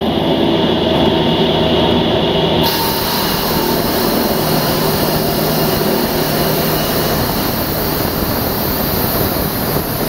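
Diamond-bladed concrete saw cutting concrete: a loud, steady mechanical noise with a low hum underneath, the hiss growing brighter about two and a half seconds in.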